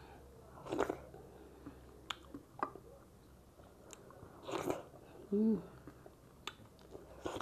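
Close-up eating sounds as a handful of dhido (thick grain porridge) dipped in nettle soup is bitten and chewed: soft wet chewing with short smacking clicks and a few longer noisy mouth sounds. A brief hummed voice sound comes about five and a half seconds in and is the loudest moment.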